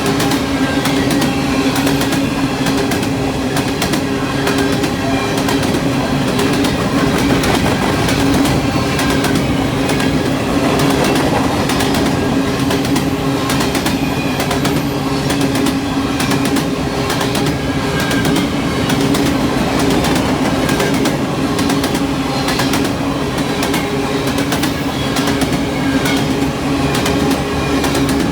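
CN freight train cars rolling past with a steady rumble and a fast, continuous clatter of wheels clicking over the rail joints.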